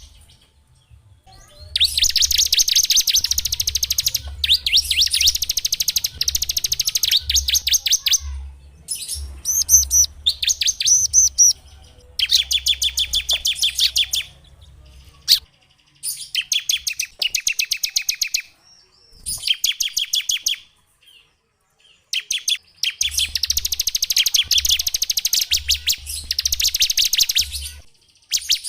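Small songbirds singing long, fast trills of rapidly repeated high notes, phrase after phrase with short breaks. It is a bird-song 'masteran' recording of the kind played to cage birds for them to copy.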